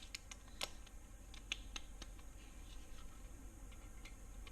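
Faint, scattered light clicks and taps of metal parts and tools being handled while ARP main studs go into an LS engine block, with no drill running.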